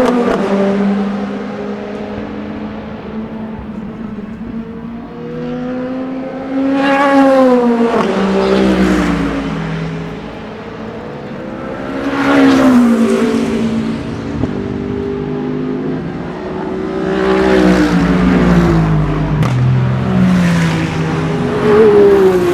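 Endurance race cars passing at speed one after another, about four times, each engine note rising as it approaches and dropping in pitch as it goes by.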